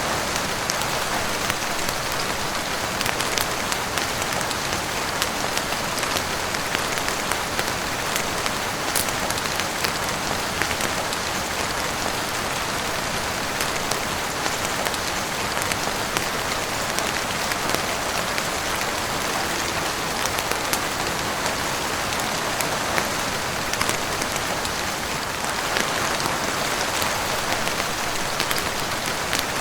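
Heavy rain falling steadily on a roof and windows, a dense even hiss scattered with many small sharp drop taps.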